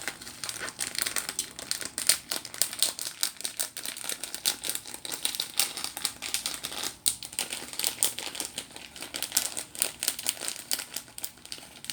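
Plastic chili-flakes packet crinkling as it is handled and opened, a dense, irregular string of crackles and clicks.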